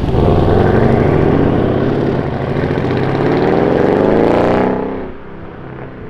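Tuned 750 hp Mercedes-Benz CLS63 AMG's twin-turbo V8 accelerating away through its stainless-steel exhaust, loud, the engine note climbing in pitch, then falling away sharply about three-quarters of the way through as the car pulls off into the distance.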